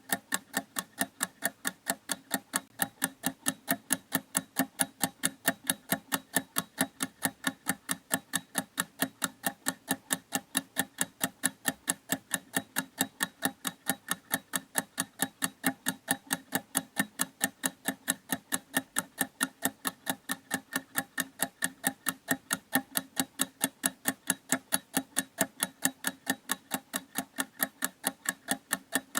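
Mechanical clock ticking in a fast, even, unbroken rhythm of sharp clicks.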